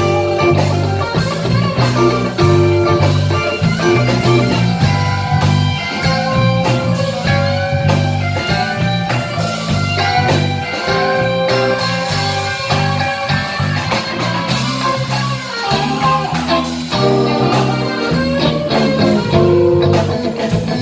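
Live blues band playing an instrumental passage: guitar over a repeating bass line and a steady drum beat.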